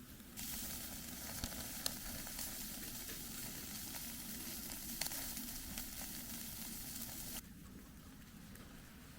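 Galbi (marinated ribs) sizzling on a hot grill, a steady hiss with scattered sharp pops and crackles. It starts suddenly about half a second in and cuts off suddenly near the end.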